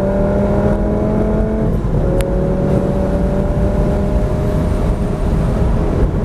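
Lamborghini Gallardo's V10 engine pulling hard at about 120 to 150 mph, heard from inside the cabin over heavy wind and road roar. Its pitch climbs slowly, drops with a paddle-shift upshift about two seconds in, then climbs again.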